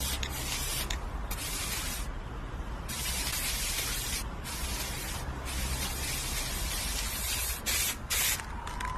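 A hiss in a run of long bursts, each lasting about a second, with short breaks between them.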